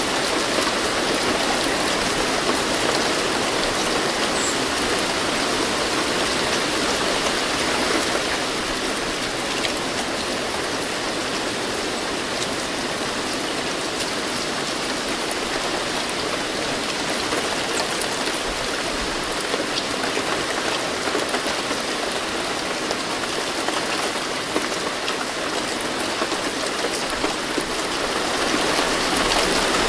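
Steady rain falling, with a dense even patter of drops on surfaces.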